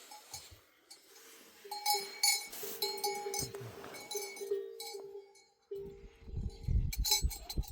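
Metal livestock bells on a herd of goats and sheep clanking irregularly as the animals move, with a short lull about a second in. A low rumble joins in over the last two seconds.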